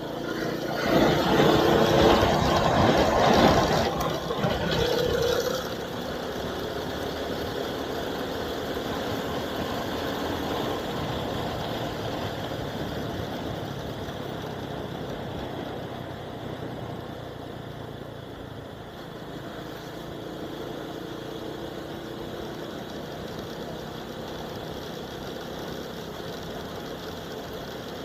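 Vehicle engine and road noise picked up by an action camera's built-in microphone while driving. A louder rushing surge lasts for the first few seconds, then settles to a steady running hum.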